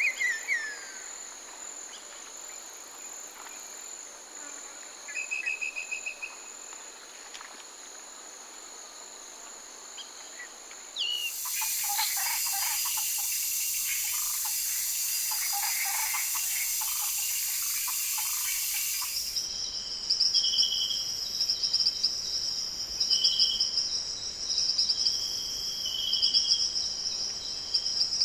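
Tropical forest ambience of chirping insects and bird calls. It changes abruptly twice: a few falling bird whistles and a short trill, then a loud high hiss with bird calls under it, then rapid pulsing insect chirps with short repeated calls.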